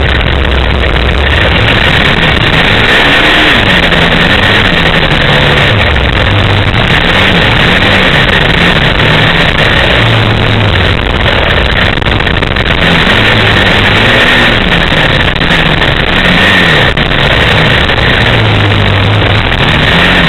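Small off-road vehicle engine running under load, its pitch rising and falling again and again as the throttle is opened and eased off, with a loud steady rushing noise over it.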